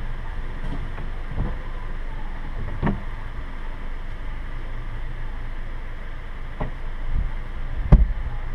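Steady low rumble of an idling vehicle engine, with several short sharp knocks, the loudest near the end.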